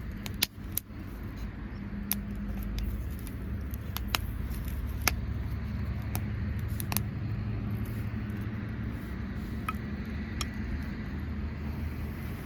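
Campfire crackling: scattered sharp pops at irregular intervals over a steady low rumble.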